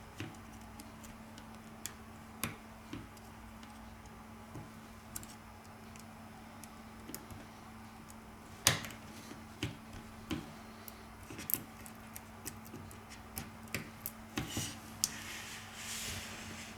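Light clicks and taps of small tools and parts being handled on a phone-repair bench, over a faint steady hum; the taps come more often in the second half.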